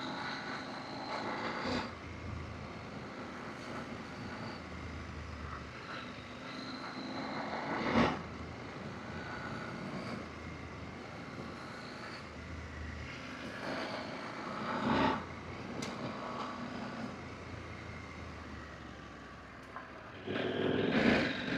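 Adventure motorcycle engine running as the bike is ridden along a forest road, with a low rumble that rises and falls. Two sharp knocks stand out, about eight and fifteen seconds in.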